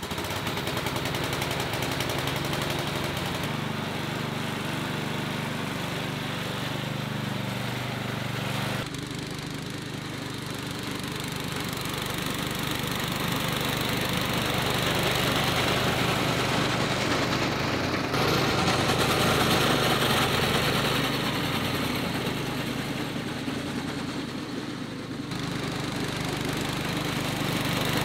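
1975 Sears LT/10E riding lawn tractor's engine running steadily while the tractor drives and mows grass. The sound changes abruptly about 9 seconds and 18 seconds in.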